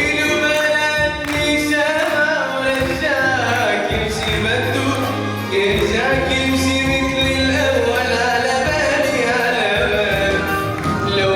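Live Arabic song: a male voice sings a gliding, ornamented melody over instrumental accompaniment with held low notes.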